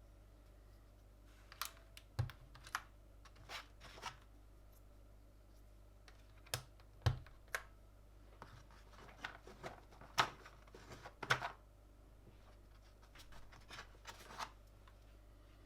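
Irregular clicks and clacks of mechanical keyboard parts being handled and pressed into place, with a few louder snaps near the middle.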